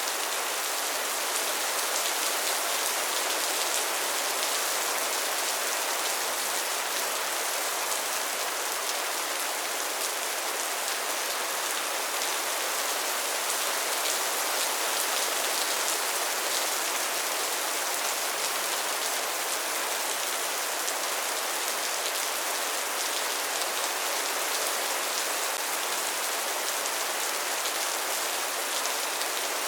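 Steady rainfall, a constant hiss of drops with fine pattering, even in level throughout.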